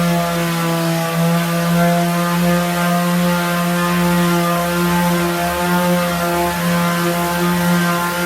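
Electric sander running steadily at constant speed, a loud even motor hum with no change in pitch.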